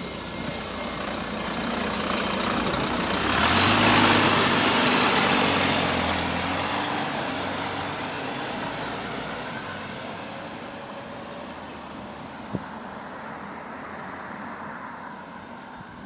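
Inside a moving bus: a loud hiss of air starts suddenly about three seconds in, together with a low hum. A high whine then rises in pitch, holds, and slowly falls away as the sound fades. There is one sharp click about twelve seconds in.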